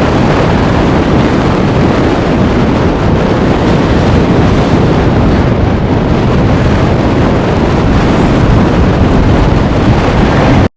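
Loud, steady blizzard wind rushing and buffeting against the microphone. It cuts off suddenly at the end.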